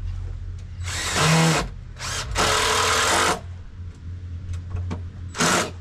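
Power drill running in two short bursts of under a second each, with a shorter third burst near the end, over a steady low hum.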